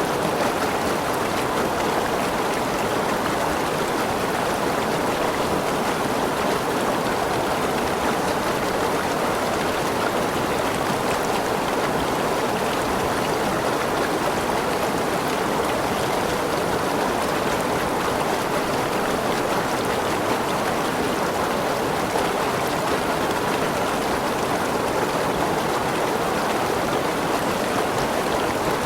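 Waterfall and its stream rushing steadily, an even roar of falling and running water.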